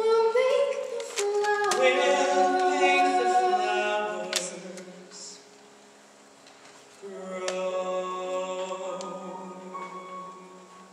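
A duet of a female and a male voice holding the final sung notes of a slow ballad over backing music, fading out about four to five seconds in. Softer held chords follow from about seven seconds in and die away as the song ends.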